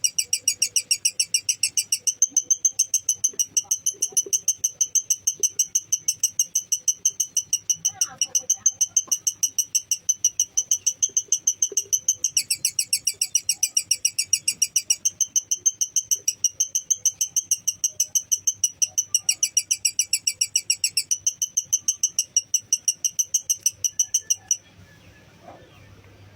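Lovebird's long 'ngekek' chatter: a fast, even string of shrill, high chirps, several a second, that runs on unbroken and stops about 24 seconds in.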